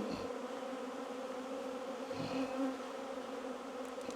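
Honey bees buzzing in numbers around an opened hive: a steady, even hum.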